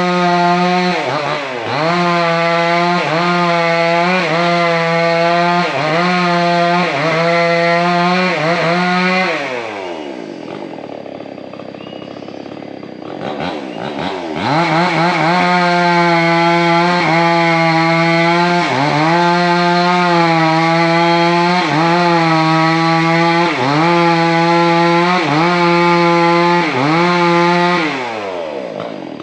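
Two-stroke chainsaw at full throttle cutting into a large sengon trunk, its engine note dipping and recovering about once a second as the chain bites into the wood. About a third of the way in it drops to idle for several seconds, then revs back up and cuts again before dropping to idle near the end.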